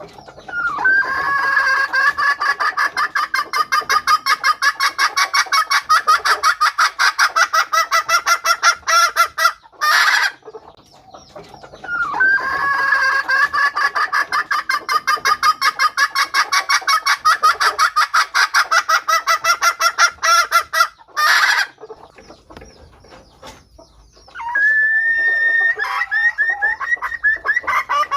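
Red junglefowl hen cackling: long runs of fast, evenly paced clucks, three runs with short pauses between them. The first two runs each end in a brief harsh, noisy burst.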